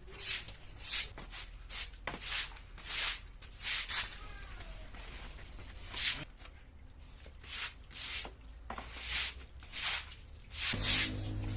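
Short hissing swishes of garden cleaning work, repeated roughly once a second; a low steady hum starts near the end.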